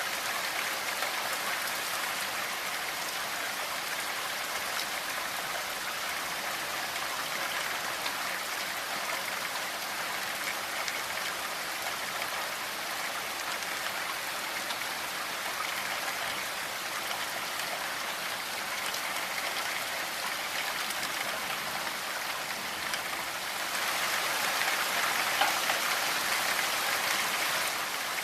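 Steady rainfall: a dense, even patter of drops on a surface, growing a little louder for the last few seconds.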